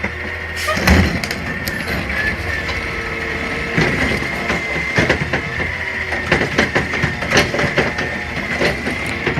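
CNG garbage truck at work: the engine runs under a steady high whine, with a string of sharp metal clanks and knocks, the loudest about a second in.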